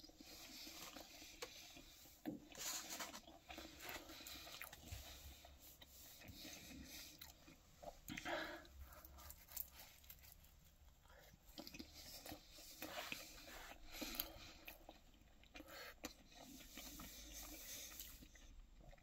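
A person biting into a slice of pizza and chewing it, faint irregular chewing and mouth sounds with a few sharper, louder bites.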